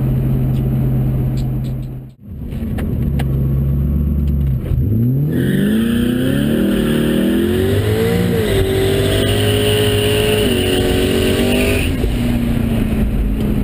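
Twin-turbo 5.4-litre V8 of a 1998 Saleen Mustang heard from inside the cabin, running steadily with a brief break in the sound about two seconds in. About five seconds in it accelerates hard, pitch climbing steeply with a high whine riding over it, shifting up twice, then easing off near the end.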